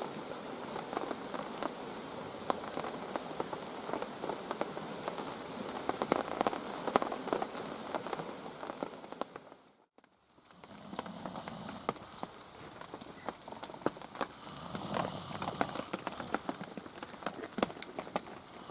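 Steady rain falling on woodland foliage, with many sharp drip ticks through it. The sound drops out briefly about halfway through, then carries on.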